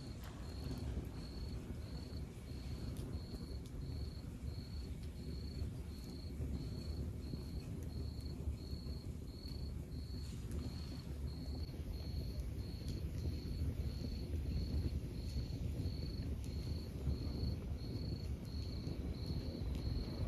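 Wood fire burning in a fireplace: a steady low rumble of flames with scattered small crackles. A short high chirp repeats evenly a little more than once a second throughout.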